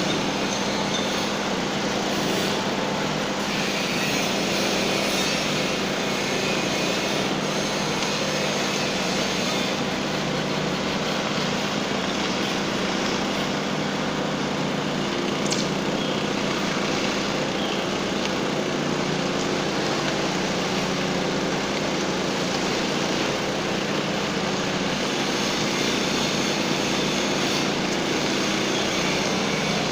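Concrete power trowel's small petrol engine running steadily at constant speed, with an even hum as the blades finish a floor.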